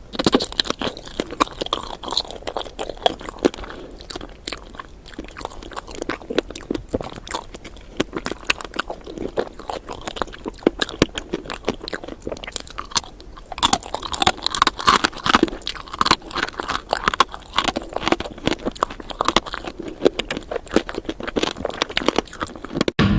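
Close-miked biting and chewing of candied fruit: many quick, irregular crunches and crackles as the hard sugar coating breaks between the teeth.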